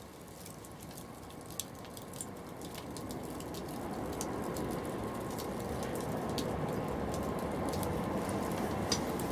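Wood fire crackling with a few sharp pops, over a low rumbling noise that grows steadily louder.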